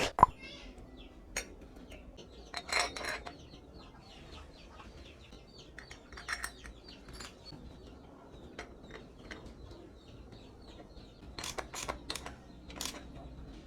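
Scattered metal clinks and knocks of tools and parts being handled. The sharpest click comes right at the start, with clusters of clinks about three seconds in, around six seconds in and near the end.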